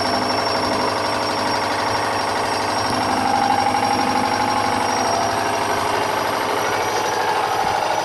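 Hoover washing machine on an unbalanced spin, shaking and banging in a rapid, continuous clatter: the load is off-centre in the drum.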